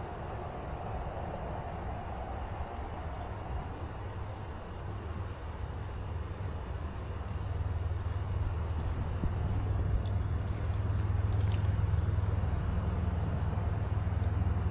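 Steady low outdoor rumble that grows louder in the second half, with faint insects chirping in a steady even rhythm.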